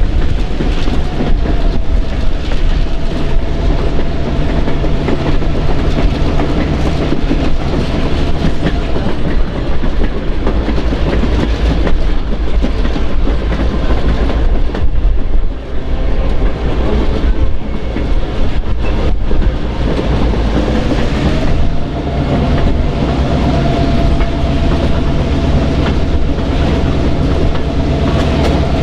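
Passenger train rolling along the rails, wheels clicking over the joints, over a steady low hum; a faint steady whine comes and goes.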